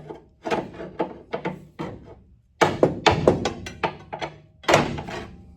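Pry bar levering at a stuck collar on a baler gearbox shaft: an irregular series of metal clanks and scrapes, with a quick cluster of knocks about two and a half seconds in and one more near the end. The collar has sat on the shaft for years and is reluctant to slide.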